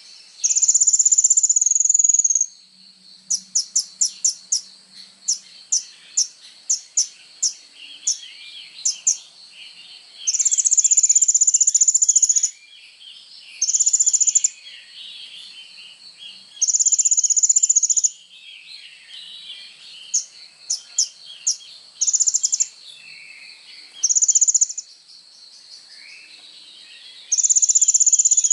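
Kolibri ninja (a sunbird) singing loudly: high, fast trills of one to two seconds alternate with quick runs of sharp chips. A faint steady high-pitched insect drone runs underneath.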